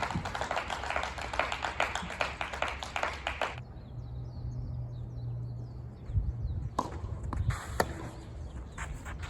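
Spectators clapping for about three and a half seconds. After that a low steady hum, with a few sharp knocks near the end.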